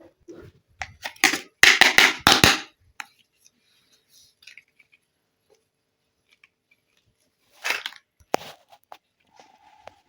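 Crackling and clicking of plastic toy pieces and packaging being handled, in two loud bursts with quiet gaps between.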